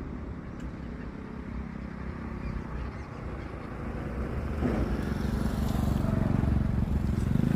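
An engine running, growing steadily louder from about halfway through, over a steady low rumble.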